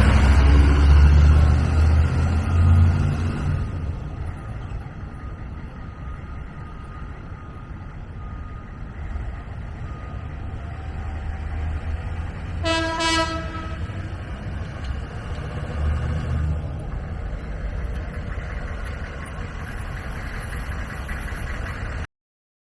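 1991 AM General Humvee's diesel V8 running loud for the first few seconds as it pulls away, then settling to a steadier, quieter run. A short horn toot sounds about 13 seconds in. The sound cuts off abruptly near the end.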